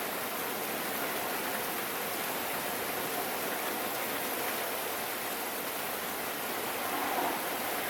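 Steady rain falling, an even hiss with no distinct drops standing out, swelling slightly about seven seconds in.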